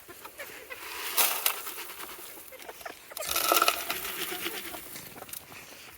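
Feed bowls being dug out and handled: two short bursts of scraping and clinking, about a second in and again around three and a half seconds in, the second with a brief ringing tone.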